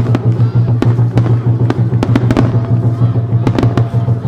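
Fireworks bursting and crackling in rapid succession, many sharp reports close together, over music with a steady low bass tone.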